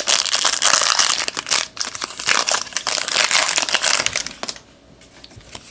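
Trading card pack wrapper being torn open and crinkled by hand: a dense crackle of many small clicks that stops about four and a half seconds in.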